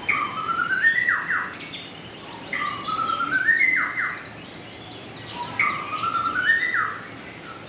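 A songbird singing the same phrase three times, each a run of notes climbing step by step and ending in a couple of quick downward-slurred notes, with other birds chirping higher and fainter in the background.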